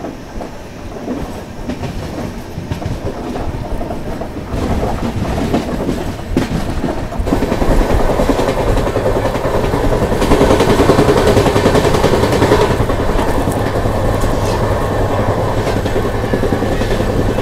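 Moving passenger train, heard close alongside the coach from its open door: a steady rumble and clatter of wheels on the rails. It grows louder about four and a half seconds in and again near seven seconds, then holds.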